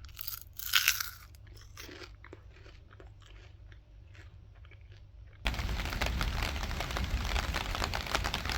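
Crunching sounds, with a louder burst of crunches about a second in. About five seconds in, the sound cuts abruptly to a much louder steady hiss dense with small ticks.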